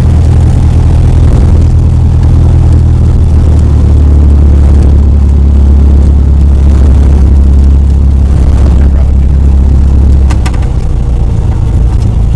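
Cessna 172's piston engine and propeller running steadily at low power. About ten seconds in the note drops and gets a little quieter as power comes back.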